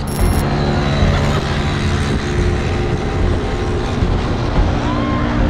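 Enduro motorcycle engine running at a steady pitch, with loud wind rush.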